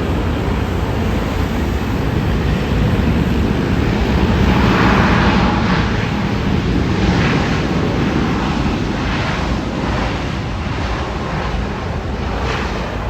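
Boeing 787 Dreamliner landing: a loud, steady rush of jet engine and air noise over a low rumble, swelling about four seconds in. Wind gusts on the microphone run through it.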